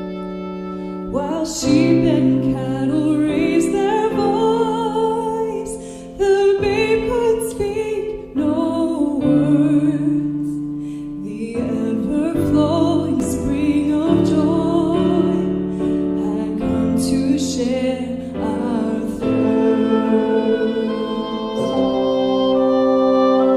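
A woman sings a hymn melody with vibrato, accompanied by piano and long held instrument notes. The sung phrases stop briefly a few times between lines.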